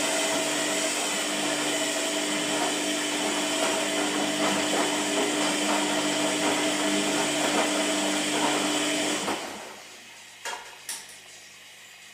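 Washing machine motor running with a steady hum and whir, stopping about nine and a half seconds in, followed by two short clicks.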